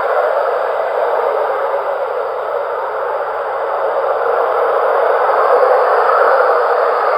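Steady, even rushing noise with no distinct events, strongest in the middle range and lacking any low rumble.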